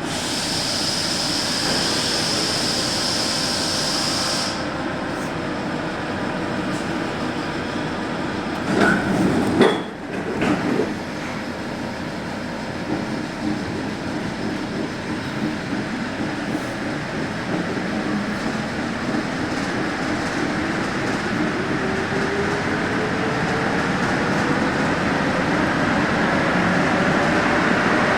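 NS-74 rubber-tyred metro train running, with a steady high whistle for the first few seconds and a short cluster of loud knocks about a third of the way in. Over the last ten seconds a whine rises steadily in pitch as the train picks up speed.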